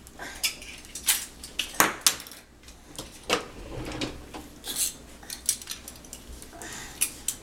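Dishes and cutlery clinking and clacking as they are lifted out of a dishwasher rack and set down, in irregular bursts of sharp knocks.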